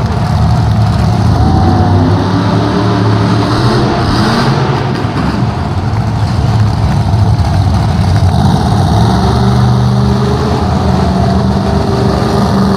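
Monster truck engine running loudly, revving up and down.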